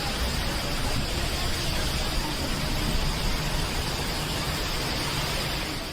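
Steady, even rushing noise of water, with no distinct events.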